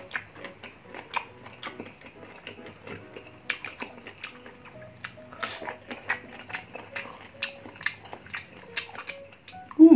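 Close-miked crunchy chewing of raw green mango slices dipped in shrimp paste, with many sharp crunches and wet mouth clicks. A brief, louder mouth sound comes near the end.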